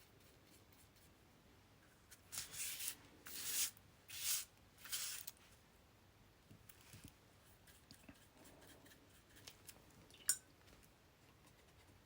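Four short, scratchy rasps of paper being worked in quick succession, then a single sharp click near the end.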